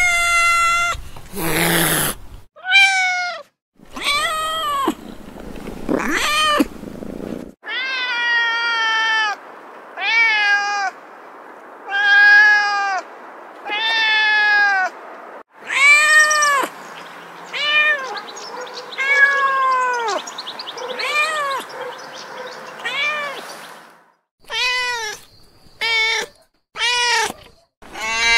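Domestic cat meowing over and over, about twenty separate meows in a row, each rising and then falling in pitch.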